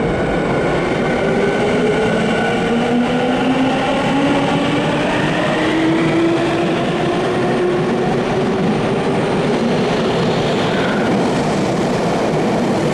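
Electric commuter train pulling out of an underground station: the traction motors' whine slowly rises in pitch as it accelerates, over a steady rumble of wheels on rail.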